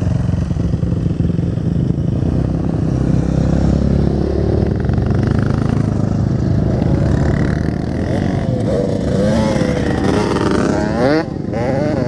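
Dirt bike engines running, with an engine revving up and down in waves from about two-thirds of the way in.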